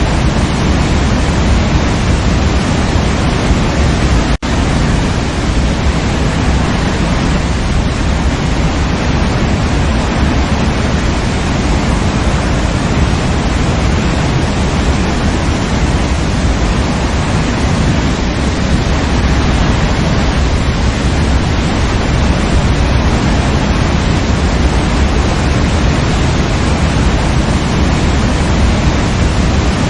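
Waterfall rushing with a steady, heavy low rumble. A split-second dropout comes about four seconds in.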